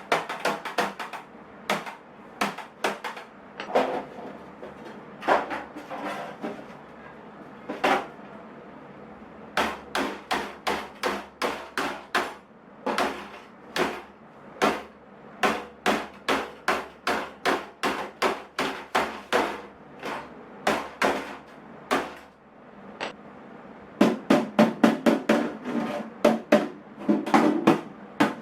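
Hammer blows on the aluminium tool box, steady at about two a second, pausing briefly near the end before a louder, quicker run.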